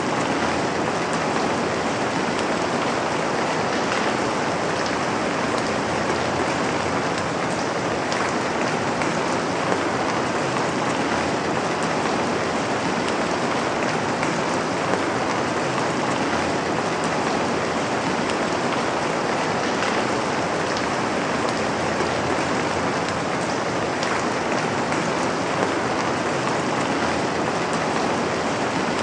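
Steady rain falling on a surface: a dense, even hiss with many fine pattering drops.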